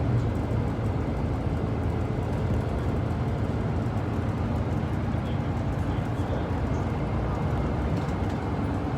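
Moving bus, its engine and tyre noise heard from inside the cabin as a steady low rumble with a faint hum.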